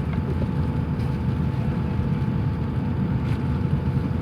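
Cabin noise inside an Airbus A350-900: a steady low rumble from the engines and airflow, with a faint steady hum over it.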